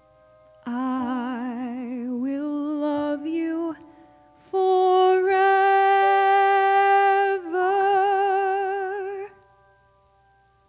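Female voice singing a slow, soft ballad phrase with wide vibrato, stepping up to a long held final note that ends about nine seconds in.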